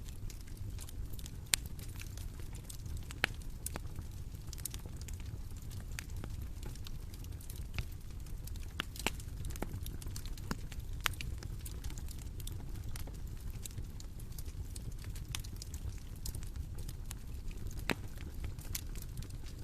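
Wood fire burning with a steady low rumble and scattered sharp crackles and pops at irregular intervals.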